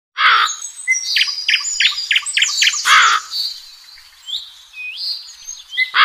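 Birdsong: several birds chirping and whistling, with a run of short repeated notes and two loud harsh calls, one near the start and one about three seconds in.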